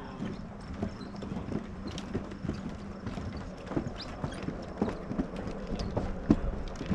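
Footsteps of several people walking on a wooden boardwalk: irregular hollow knocks, two or three a second, over a faint steady hum.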